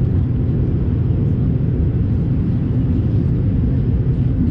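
Cabin noise aboard an Airbus A220-300 airliner: a steady low rumble from the engines and the airflow around the fuselage, with no distinct events.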